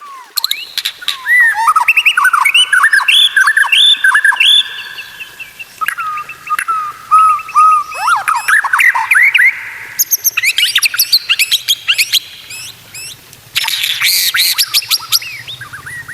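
White-rumped shama (murai batu) singing a long, varied song: looping whistled notes that glide up and down, giving way after about ten seconds to fast rattling, clicking chatter.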